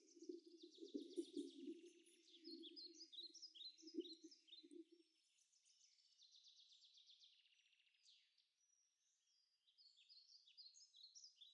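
Faint birdsong of quick chirps and trills throughout, over a low muffled sound that fades out about five seconds in.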